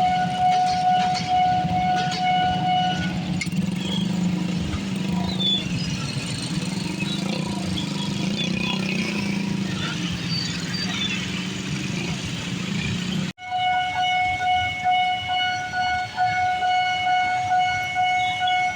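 Railroad crossing warning alarm sounding a steady, unbroken tone, with a passing train's low rumble taking over for about ten seconds. The sound cuts off abruptly about two-thirds of the way through and the same alarm tone comes back.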